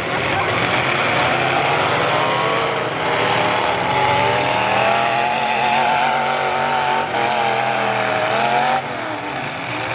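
Demolition-derby pickup truck engines revving hard, their pitch wavering up and down. The loudest engine falls away near the end.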